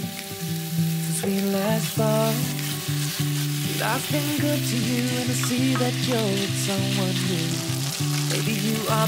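Marinated chicken pieces sizzling in oil in a nonstick frying pan, stirred with a spatula. Background music with a melody over held low notes plays throughout.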